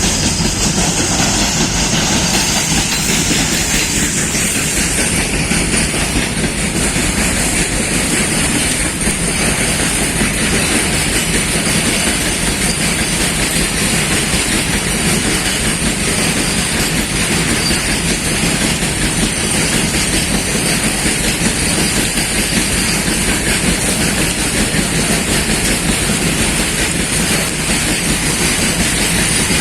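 Goods train passing through a station without stopping: a steady, unbroken noise of its wagons' wheels running on the rails.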